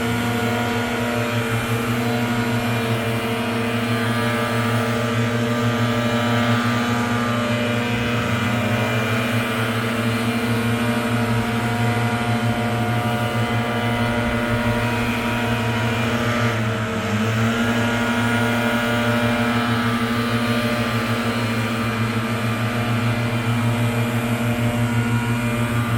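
Gas-powered leaf blower engine running steadily, its pitch dipping briefly about seventeen seconds in.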